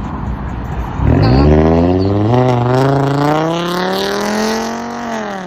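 Car engine accelerating hard: a loud engine note that starts about a second in and climbs steadily in pitch for a few seconds, then drops off near the end as the throttle is released.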